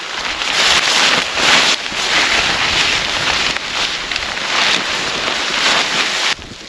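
Storm wind blowing in surging gusts, a loud rushing hiss that swells and eases and then cuts off abruptly near the end.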